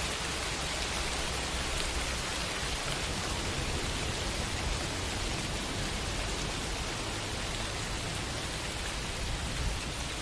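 Steady rain falling on city surfaces, an even hiss of many drops with no separate sounds standing out.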